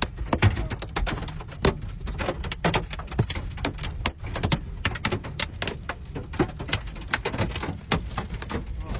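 Hailstones pelting a moving car, many irregular sharp cracks several times a second over a steady low rumble of wind and road noise.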